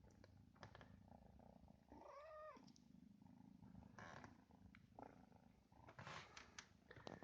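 British cat purring steadily, a low continuous rumble, with a short rising-and-falling squeak about two seconds in and a few faint clicks.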